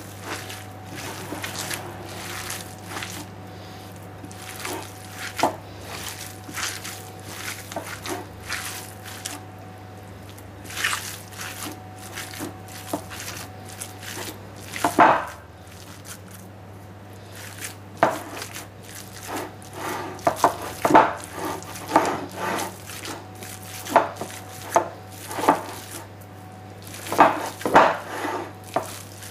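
Sausage meat mixture being worked by hand in a bowl: irregular wet squelches and slaps, louder and more frequent in the second half.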